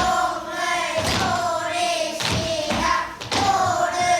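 A group of young children chanting in unison in drawn-out, sing-song phrases, with a heavy thump about once a second marking the rhythm.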